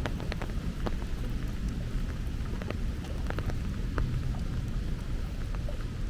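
Heavy rain falling, with many scattered sharp drips of drops hitting nearby surfaces over a steady low rumble.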